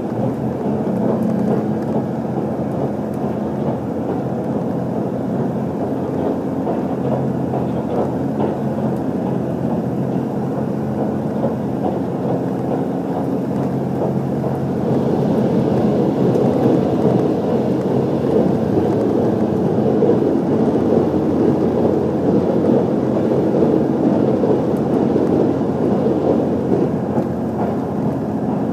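Cabin noise of an HC85 hybrid diesel express train running: a steady drone from the engine with the rumble of wheels on rails, growing louder about halfway through.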